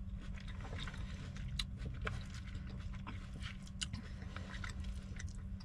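A person chewing a mouthful of steak and peppers close to the microphone: wet mouth clicks and smacks, with the utensil scooping and scraping in a paper bowl, over a steady low hum.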